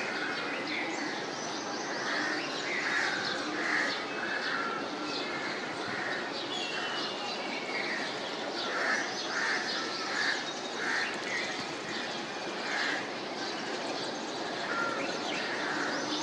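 Birds calling from the trees: many short calls repeating every half second or so through most of the stretch, with higher chirps, over a steady outdoor background hiss.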